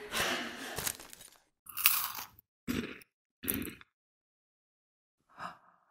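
Close-up crunching and chewing of crunchy snack food: continuous crunching at first, then three separate sharp crunches cut off into dead silence. One brief sound follows near the end.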